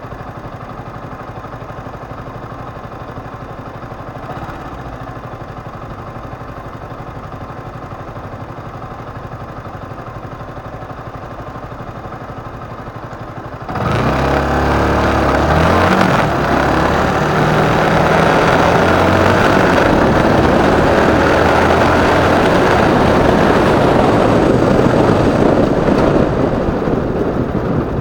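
Motorcycle engine ticking over steadily, then pulling away about halfway through with a sudden rise in level and pitch as it accelerates, running hard at speed and easing off near the end.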